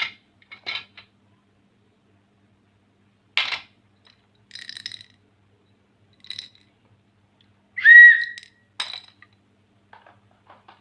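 Wooden colour pencils clicking and clinking against each other and a hard surface in a few separate knocks, with a brief high whistle-like squeak about eight seconds in, the loudest sound.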